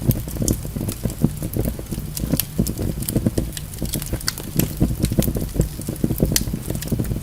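Wood fire burning in a fireplace: logs crackling and popping irregularly, many small sharp snaps over a low, steady rumble of the flames.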